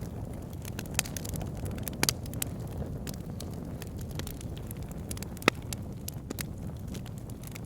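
Wood fire in an outdoor fire pit burning with a steady low rumble, crackling with scattered pops; the sharpest pop comes about five and a half seconds in.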